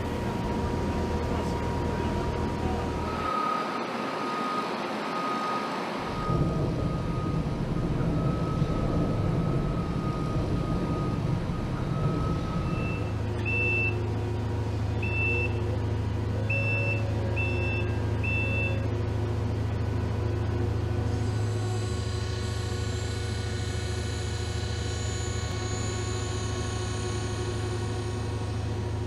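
A heavy vehicle or machine runs with a steady low hum. About halfway through, a warning alarm gives five short high beeps.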